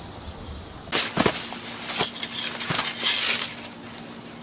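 A quick series of sharp knocks and crunching, rustling noises, starting about a second in and stopping about a second before the end.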